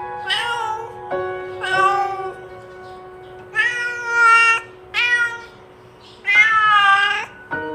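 Domestic cat meowing repeatedly, about five meows with pauses between, the last one longest, over background music with steady held notes.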